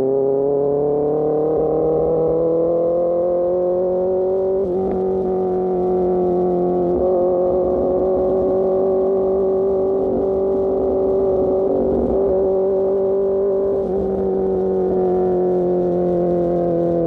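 Sportbike engine running through an Austin Racing GP1R exhaust while riding, heard from the rider's helmet. The revs climb slowly over the first few seconds, hold steady, then ease off a little near the end.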